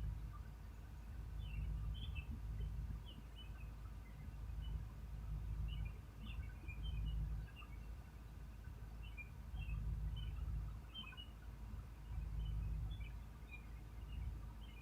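Small birds chirping in short scattered calls, over a low rumble that swells and fades every second or two.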